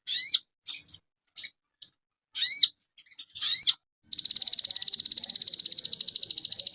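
Sogon (sogok ontong sunbird) song, used as a masteran recording: a string of short, high chirps with quick pitch sweeps, then, about four seconds in, a fast, even trill that carries on.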